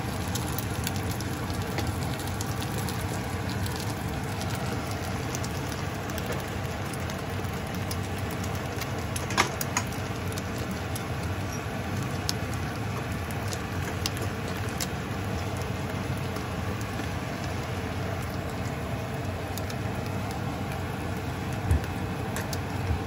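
Egg omelette frying in oil in a nonstick pan: a steady sizzle with scattered sharp pops and crackles, the loudest a little past the middle.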